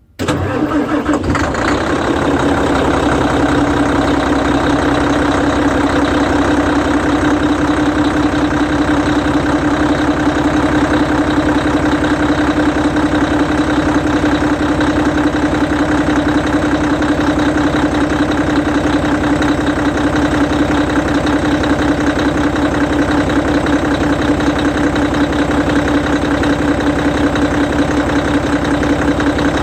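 Hino E13C 12.9-litre inline-six diesel engine of a Hino Selega bus starting up: it catches right at the start and settles within the first second or two into a steady idle.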